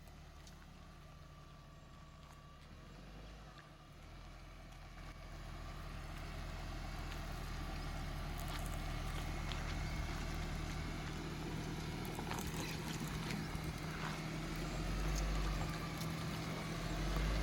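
Renault Duster's engine running as the SUV drives slowly over a rough dirt track, growing louder a few seconds in, with occasional knocks and clicks.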